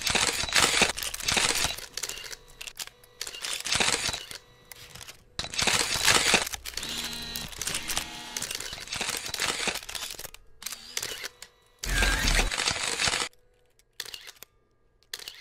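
Wet paint being swished and splashed across a large floor canvas with a long-handled brush: a series of rough, noisy strokes about a second long, with gaps between them and only a few short ones near the end.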